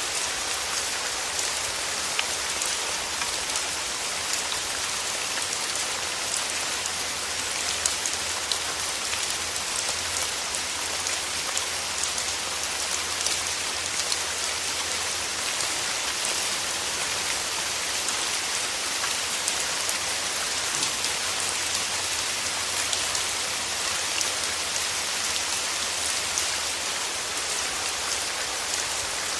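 Steady rain, an even hiss with many separate drops ticking.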